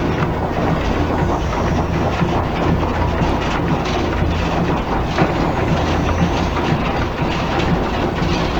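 A loud, steady rumbling, clattering noise, like heavy rolling or shaking, that begins and ends abruptly, over a continuous low drone.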